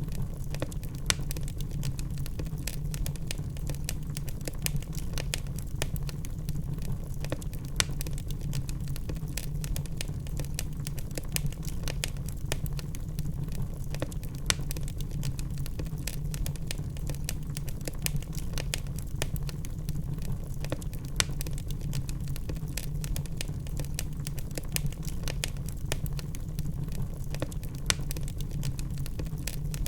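Wood fire in a fireplace burning steadily, with a low rumble of the flames and frequent irregular crackles and a few sharper pops from the burning logs.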